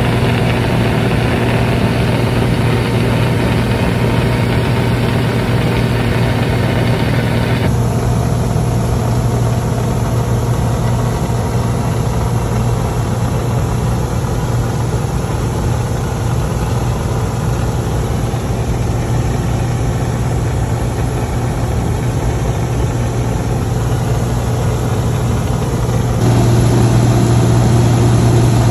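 Single-engine Cessna's piston engine and propeller droning steadily in cruise, heard inside the cabin, with a strong low hum. The tone changes abruptly about eight seconds in and again near the end.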